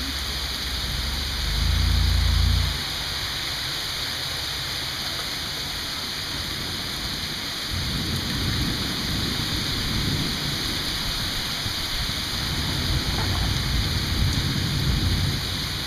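Steady rain falling, with low thunder rumbling under it: a short, louder rumble about two seconds in, then a long rolling rumble that swells and fades through the second half.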